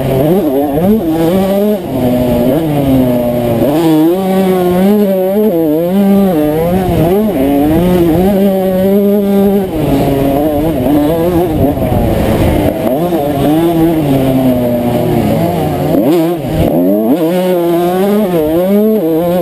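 1992 Honda CR125's 125cc two-stroke single-cylinder engine ridden hard, revving up and dropping back many times as the throttle opens and closes.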